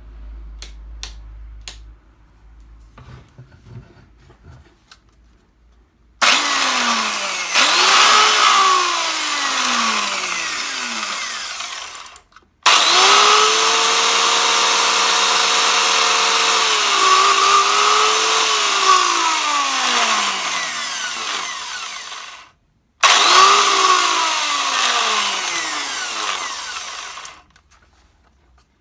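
Makita 9901 belt sander running in three bursts, its motor pitch sagging and sliding down at times, each run cutting off abruptly. A few faint clicks come before the first run.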